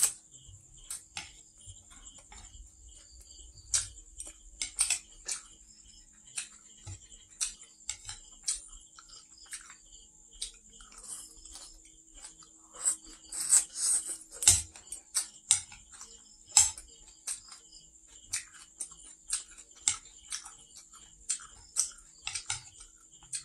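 Close-up eating sounds of stir-fried noodles and water spinach: irregular wet mouth clicks, chewing and crunching, with a louder run of them a little past halfway. Chopsticks click now and then against the plate.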